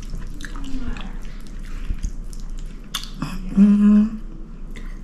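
Someone chewing a mouthful of creamy pasta, with soft clicks of a fork working in the plate, then a loud, satisfied hummed "mmm" of enjoyment about three and a half seconds in.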